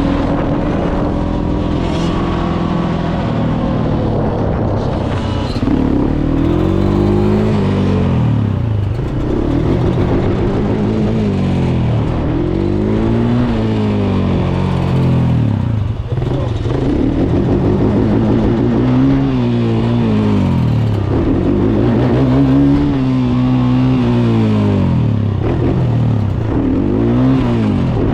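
Dirt bike engine running steadily, then revving up and down over and over, its pitch rising and falling about every two seconds.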